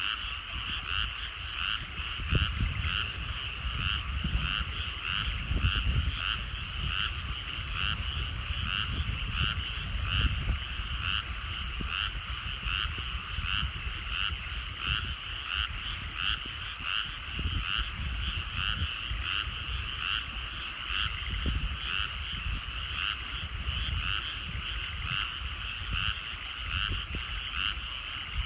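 A chorus of frogs calling from rice paddies: many overlapping calls repeating steadily and rapidly without a break, over a low, uneven rumble.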